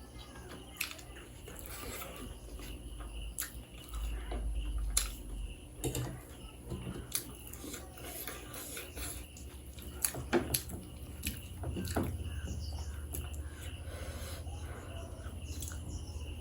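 Close-miked eating sounds: chewing and biting food, with scattered short clicks.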